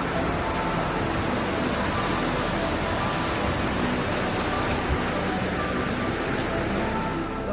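A waterfall rushing, a loud, steady wash of falling water, with faint background music underneath.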